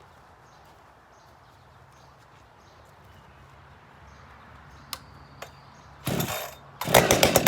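Husqvarna 372XP two-stroke chainsaw, fitted with a home-built Ironhorse-style muffler, being cold-started. After a few quiet seconds and two sharp clicks, the engine fires briefly about six seconds in, then catches and runs loud near the end.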